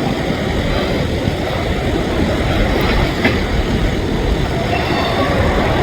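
Freight train rolling slowly past: a steady rumble of steel wheels on rail, with a few faint clicks as wheels pass over rail joints.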